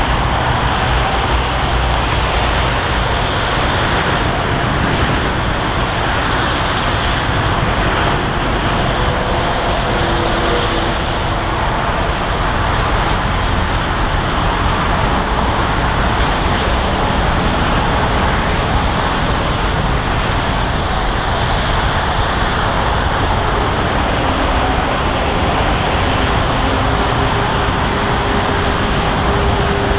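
Airbus A350-900 jet engines, its Rolls-Royce Trent XWB turbofans, making a loud, steady rush with a few faint steady tones in it.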